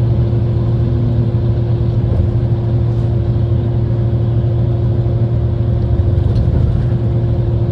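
A loud, steady mechanical drone with a constant low hum, like a motor vehicle running.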